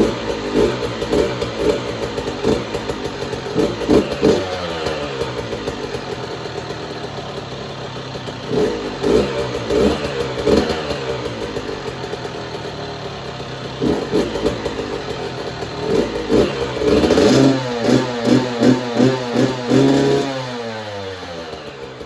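Motorcycle engine running shortly after a cold start, idling between repeated throttle blips whose revs rise and then fall away. Near the end comes a quick run of blips, after which it settles back to a quieter idle.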